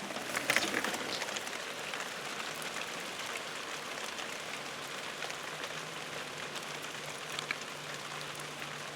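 A light summer rain shower falling steadily: an even hiss of rain, with many single drops ticking close by, thickest in the first second. It is the first rain after weeks of dry weather, only enough to dampen the ground.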